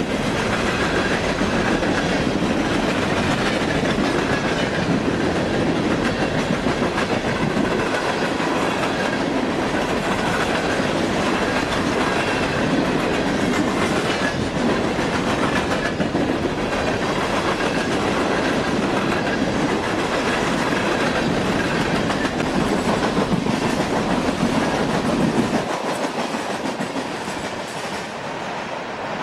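Freight train of open-top coal hopper cars rolling past, a steady rumble with the wheels clattering over the rail joints. The deep rumble drops away near the end as the last car passes and recedes.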